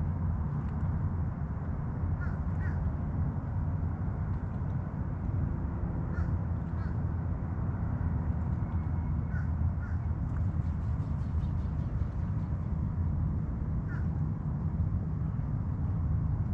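A crow calling in short caws, mostly in pairs a few seconds apart, over a steady low rumble.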